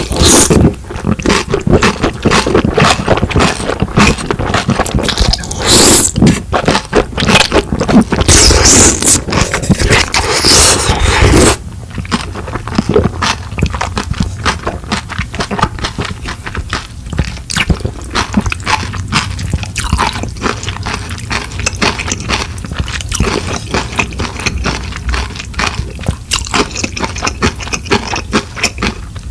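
Close-miked eating sounds of a person eating noodles and dumplings: loud wet mouth noises and scraping for about the first eleven seconds, then a sudden drop to quieter wet chewing with small clicks.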